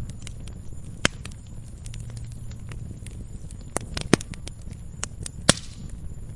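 Wood fire crackling: sharp irregular pops and snaps over a low steady rumble of flames. The loudest pops come about a second in, around four seconds in and at five and a half seconds.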